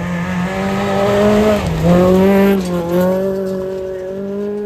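Rally car engine running hard at high revs on a forest stage, its note dipping briefly about a third of the way through, then pulling steadily again.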